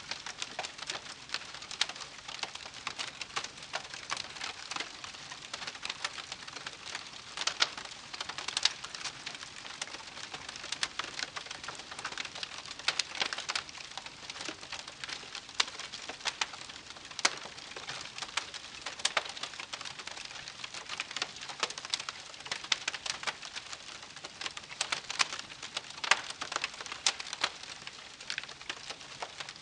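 Wood campfire crackling: a dense, irregular run of sharp pops and snaps over a soft steady hiss.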